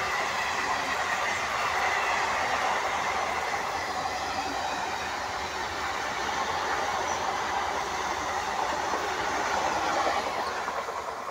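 Indian Railways parcel train's high-capacity parcel vans running through at speed, a steady rush and rattle of wheels on the rails. The noise starts to fall away near the end as the last coach goes by.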